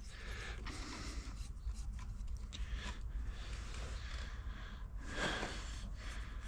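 Faint handling of small pipe fittings: scattered light clicks over a low steady hum, with a short breathy sound about five seconds in.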